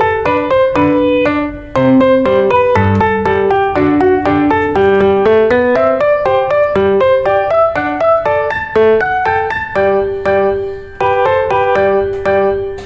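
Background piano music: a steady run of notes played one after another, with brief dips in loudness about two seconds in and again near eleven seconds.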